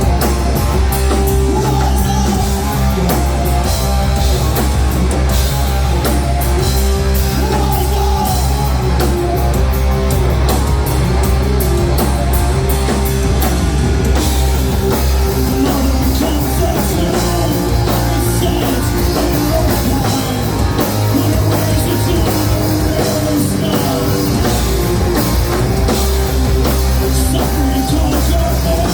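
Live rock band playing a heavy rock song on drum kit and guitars, loud and steady, with the drums and cymbals busiest in the first half.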